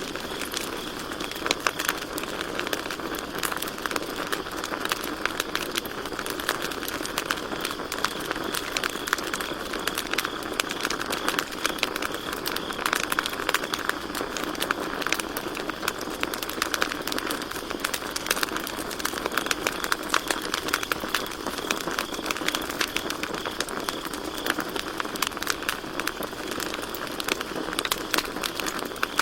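Campfire crackling, with dense irregular pops and snaps, over a steady high trill of crickets.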